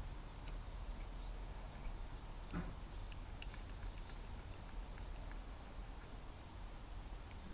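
Faint bird chirps, a few short falling notes a few seconds in, over a steady low background rumble, with a few small clicks and a soft knock from hands working on the motorbike.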